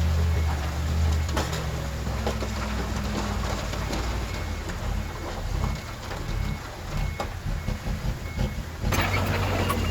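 Diesel engine of earthmoving machinery running steadily, with scattered knocks and clanks. A faint reversing beeper sounds about twice a second through the middle. Near the end a louder, hissier noise joins in.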